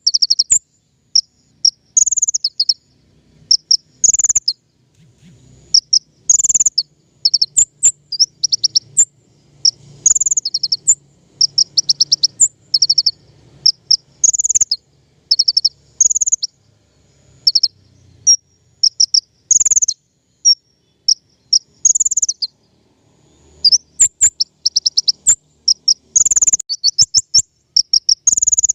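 Konin (kolibri ninja) sunbird song: high, quick chirps and fast rattling trills in short phrases, repeated about every second.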